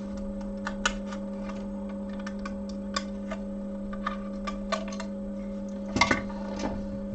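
Irregular light clicks and taps of handling on a repair bench, a few at a time with a small cluster about six seconds in, over a steady low electrical hum.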